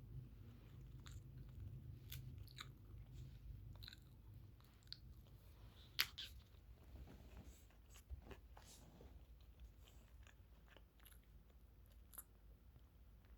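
Quiet chewing and small mouth clicks of someone eating, with one sharper click about six seconds in.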